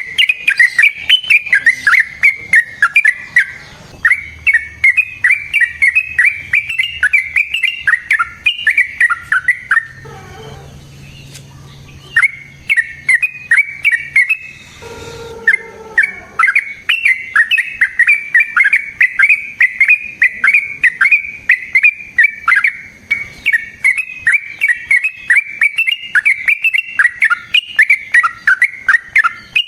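Yellow-vented bulbul (trucukan) singing long runs of rapid, loud chattering notes, with two short breaks, about ten and fifteen seconds in.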